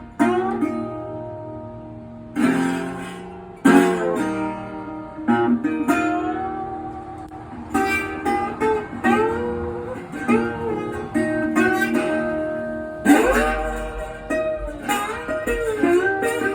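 Dobro resonator guitar playing a slow blues, plucked notes and chords with some notes sliding up and down in pitch.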